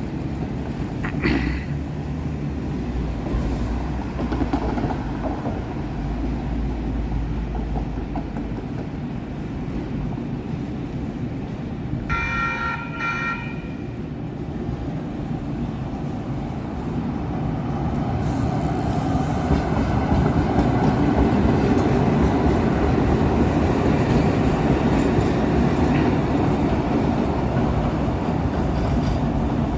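SacRT light rail train running, with a steady rumble that grows louder about two-thirds of the way through as the train comes closer. About halfway through, two short toots of its horn.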